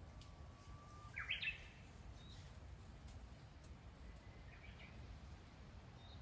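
A bird singing twice, each phrase a held whistle that breaks into a quick, higher warbling flourish; the first phrase is the louder, the second fainter, over a quiet low background hum.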